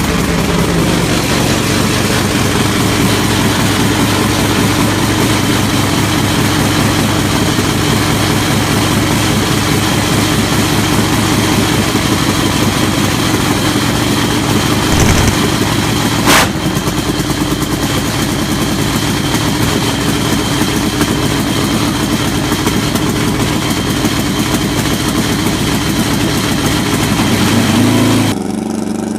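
Dirt drag racing motorcycle engine running loud and steady, with one sharp crack about halfway through.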